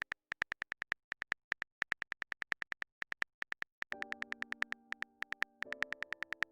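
Rapid, even clicks of a phone keyboard typing sound effect, about six to seven taps a second with brief pauses, as a text message is typed out. Soft electric-piano chords come in about four seconds in.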